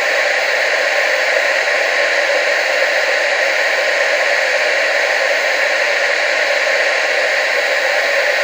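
TV static: a steady, unchanging hiss, brightest in the upper-middle range and with no deep rumble beneath it.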